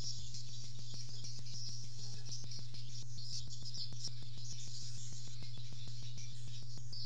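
Small birds chirping high and continuously in the background, over a steady low hum and a fast, regular ticking.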